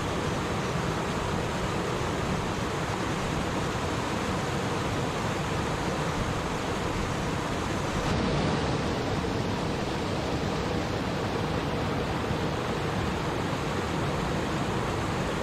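Water of a flowing stream, a steady rushing babble.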